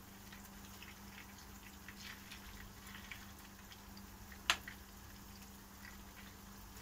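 Grated-potato pancakes frying in sunflower oil and butter, a faint sizzle with scattered small crackles. There is a single sharp click about four and a half seconds in, and a faint steady hum underneath.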